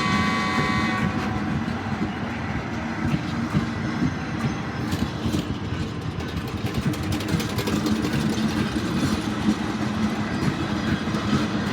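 Passenger express train's horn sounding and cutting off about a second in, then the train running past with a steady rumble and its wheels clattering over the rail joints.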